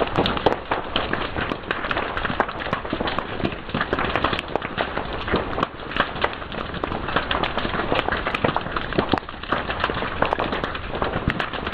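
Fire crackling, with dense, irregular snaps and pops over a steady hiss.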